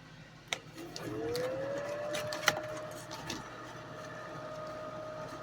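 A vintage Dominion hair dryer switched on with a click: its fan motor spins up in a rising whine about a second in, then runs at a steady hum, blowing full air. Another sharp click comes midway.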